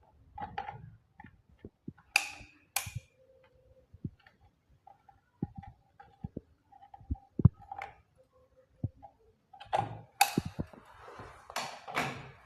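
Scattered light knocks and clicks, like tools and fittings being handled, with a few short hissing scrapes near the start and a longer stretch of them near the end.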